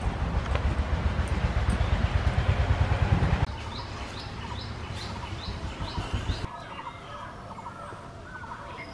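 A loud, low rumbling noise cuts off abruptly about three and a half seconds in. Birds are then heard calling: a run of about six short, falling high chirps, followed by quieter chirps.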